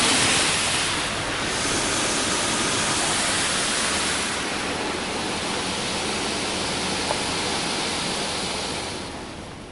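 Rinse water from an in-bay automatic car wash's gantry spraying onto the car, heard from inside the cabin as a loud, steady hiss. It fades away near the end as the spray pass finishes.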